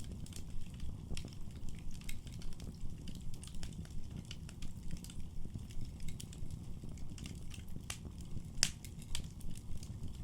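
Wood fire in a fireplace crackling, with irregular sharp pops and snaps over a steady low rumble of burning. One pop near the end stands out as the loudest.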